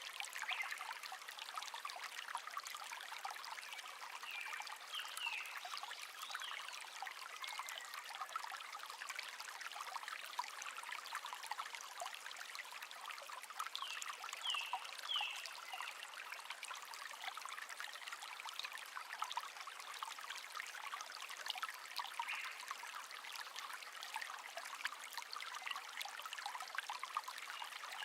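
A shallow stream babbling and trickling, with songbirds chirping over it: a few short high calls about five seconds in, and a quick run of three notes around the middle.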